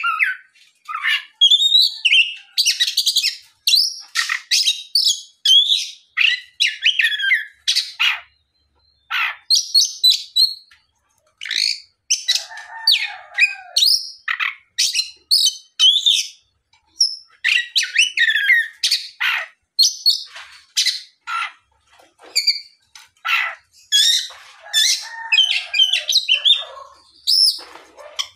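Oriental magpie-robin in loud, full song: a fast run of varied whistled and sliding phrases mixed with harsh, scratchy notes, broken by short pauses. This is a male singing hard, the kind of song used to draw other magpie-robins into answering.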